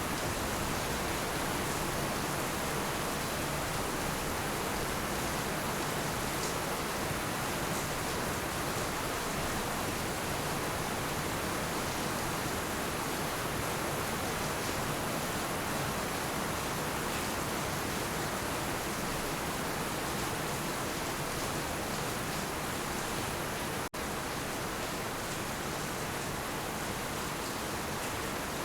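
Heavy rain falling in a steady, dense hiss, with one momentary gap near the end.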